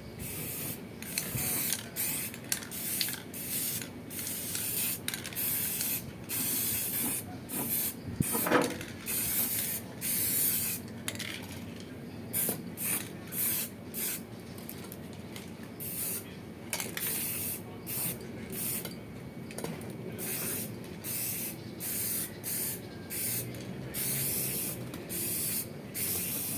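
Spray paint hissing out of a spray can in short repeated bursts, about one a second, with brief pauses between them.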